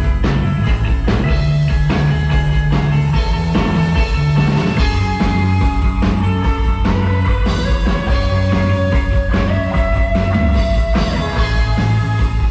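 Rock band playing live: an instrumental passage with electric guitar and drums over a steady low bass line, with no singing.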